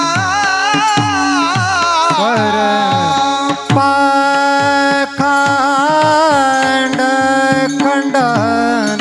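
Kirtan music: a singer holds a long, wavering melodic line with no words, over a steady drone and regular hand-drum strokes that drop in pitch after each hit.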